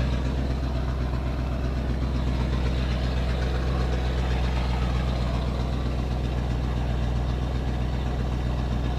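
The rebuilt, carburetted 351 Windsor V8 in a 1991 Ford F250 idling steadily just after starting, warming up. The idle has just been set and the engine sounds good.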